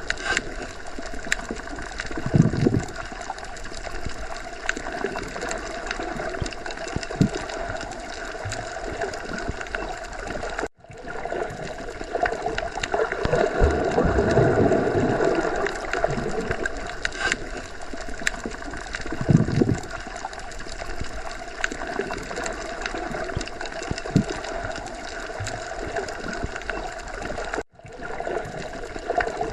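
Underwater ocean ambience: a steady, muffled water rumble with gurgling and occasional low swells and thumps. It cuts out for an instant twice, about eleven seconds in and near the end.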